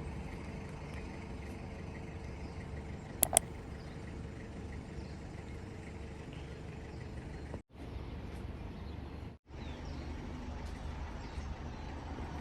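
Steady low road rumble of a moving tour bus, heard from inside. There is a short sharp click about three seconds in, and the sound cuts out briefly twice in the second half.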